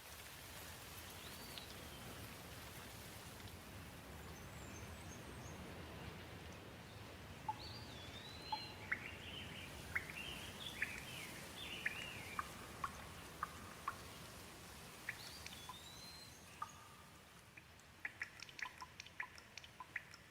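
Gentle rain falling as a faint, steady hiss, with birds chirping several times through the middle and a quick run of sharp ticks near the end.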